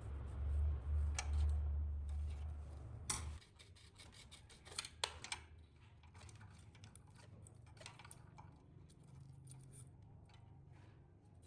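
A low hum that cuts off suddenly about three seconds in, then scattered light clicks and taps of small metal parts and tools being handled.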